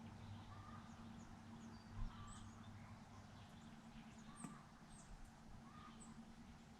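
Birds chirping faintly: many short, high calls scattered throughout, over a low steady hum. There is a single thump about two seconds in.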